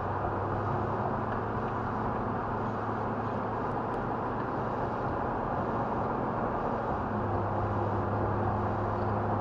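Truck cabin noise while driving: a steady low engine hum under road and tyre noise, the hum growing a little stronger about seven seconds in.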